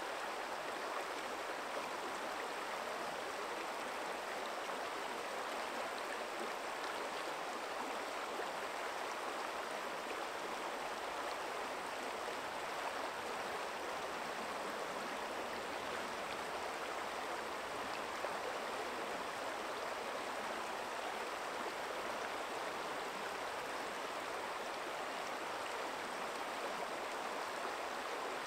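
Forest stream flowing over stones, a steady rushing and babbling of water.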